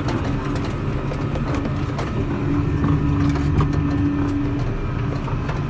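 Vehicle engine running steadily under way, heard from inside the cab, with a hum that swells slightly midway and light clicks and rattles throughout.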